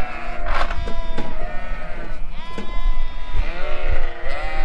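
A flock of ewes and lambs bleating over one another, several long wavering calls overlapping, as the ewes are sorted away from their lambs for weaning. A few short knocks sound under the calls.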